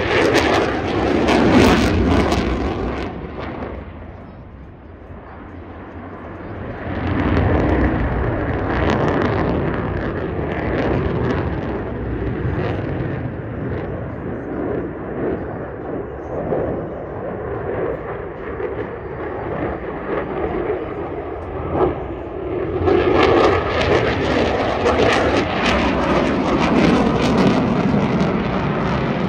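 Lockheed Martin F-22 Raptor jet fighter's twin turbofan engines making a pass. The jet noise fades for a few seconds, comes back strongly about seven seconds in, and swells again, brighter, near the end.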